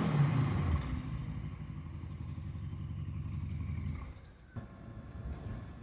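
Mercedes-AMG C63's 4.0-litre twin-turbo V8 coming down from a rev into a steady low rumble, which falls away about four seconds in, followed by a single click.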